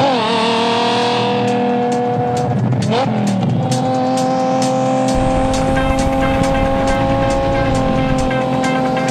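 An engine revving, falling in pitch at first, then dipping and rising again about three seconds in before holding a steady pitch, over a music track whose ticking beat builds and whose bass comes in about halfway through.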